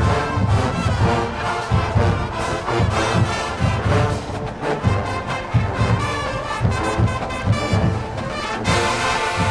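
Marching band playing: a full brass section of trumpets and trombones over low brass and a steady drum beat.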